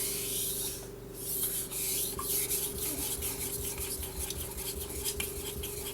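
Steel knife blade stroked across a wet 3000-grit Japanese water stone with a guide clip setting the angle, sharpening the second side heel to tip: a hissing scrape, one longer stroke, a short break about a second in, then a run of quicker short strokes.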